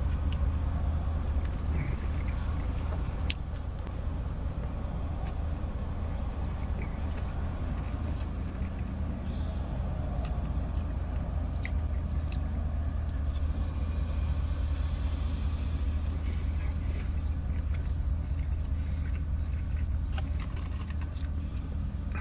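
A person biting into and chewing a burger, with soft mouth sounds and scattered small clicks, over a steady low hum from the car cabin.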